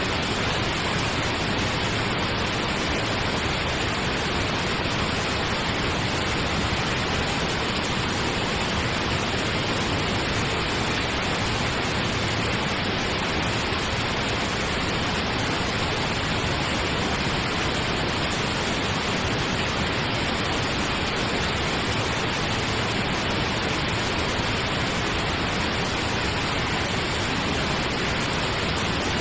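Steady pink noise: an even, unchanging hiss like a distant waterfall.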